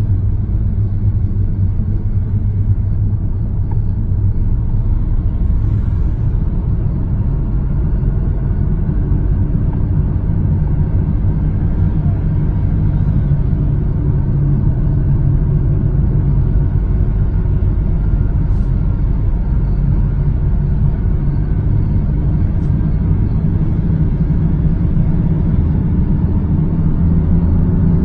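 Steady low rumble of a moving motor vehicle, its engine and road noise running evenly.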